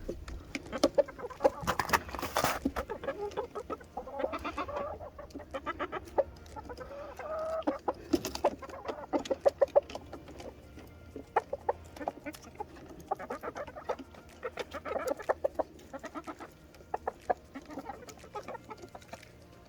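A small flock of laying hens clucking on and off, mixed with many short sharp taps.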